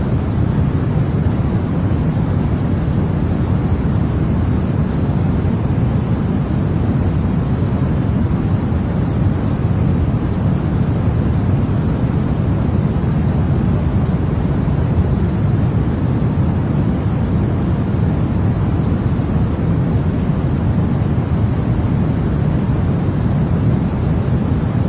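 Continuous white-noise track: a steady, even rushing noise that stays the same throughout, heavier and deeper in the low end than in the highs.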